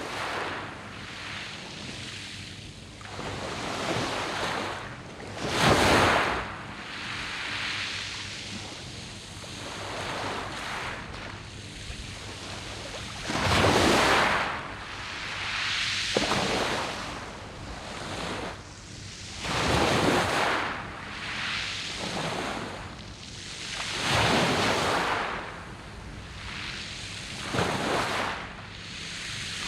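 Sea waves breaking and washing over a pebble beach, the surf swelling and falling back every few seconds. The biggest surges come about six and fourteen seconds in.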